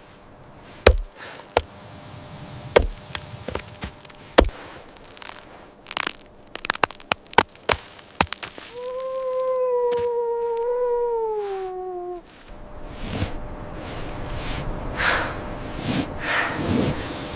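A series of sharp chopping strikes, spaced unevenly and clustering faster about 6 to 8 seconds in. Then comes one long, smooth call lasting about three seconds that slides down at the end, followed by rustling noise.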